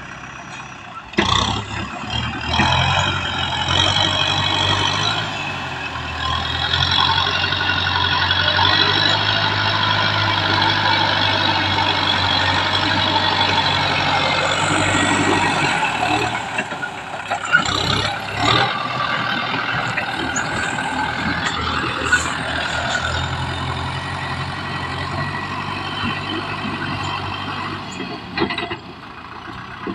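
Kubota M6040 SU tractor's diesel engine running steadily under work, a low drone with a loud mechanical clatter over it. It dips briefly about halfway, with a few sharp knocks around the middle.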